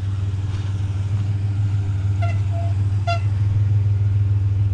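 Pickup truck's engine and road drone heard from inside the cab while driving, steady and low, with a couple of brief faint chirps about two and three seconds in.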